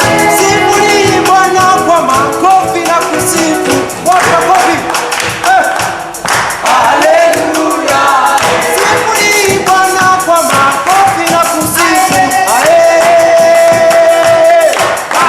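Live gospel worship music: voices singing over a band with fast, steady percussion, including jingling hand percussion such as tambourine.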